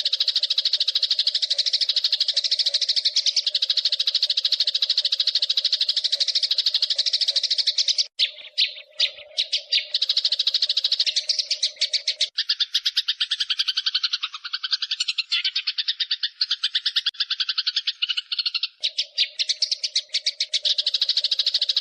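Eurasian tree sparrows chattering in a fast, unbroken roll of chirps, the aggressive sparrow calls used as a bird-training track. The run stutters briefly about eight seconds in and drops lower in pitch for a stretch in the middle.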